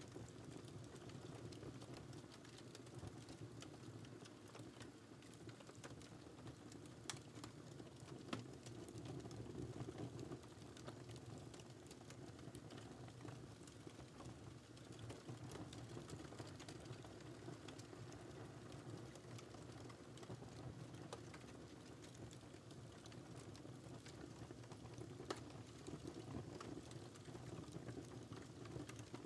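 Wood fire burning in a fireplace: a soft steady low rumble of flames with scattered sharp crackles and pops.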